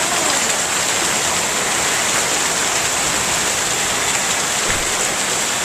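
Marble-size hail falling with rain, a dense steady hiss with faint scattered ticks of hailstones striking.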